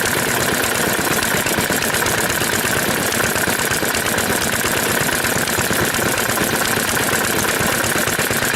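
Vintage Japanese stationary engine (hatsudōki) running steadily, a rapid even beat of strokes.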